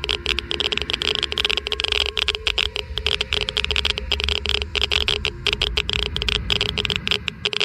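Geiger–Müller counter clicking rapidly and irregularly, many clicks a second, over a faint steady hum. A low rumble runs underneath and cuts off near the end.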